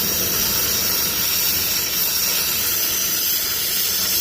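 Steady hiss of a brazing torch flame working on an HVAC unit's copper refrigerant line.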